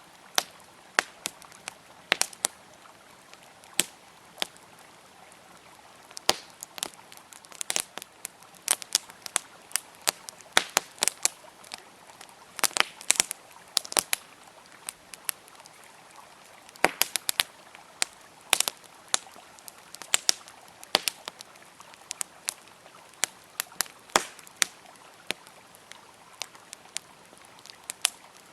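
Wood campfire crackling and popping in irregular sharp snaps, sometimes several in quick succession, over a faint steady rush of flowing river water.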